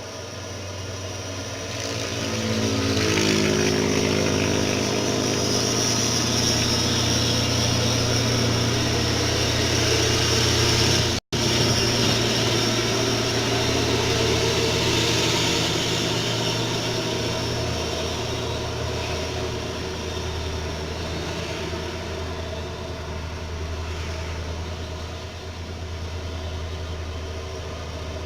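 Truck engine pulling up an incline, growing louder with its pitch rising over the first few seconds, then running steadily. The sound cuts out for an instant about eleven seconds in.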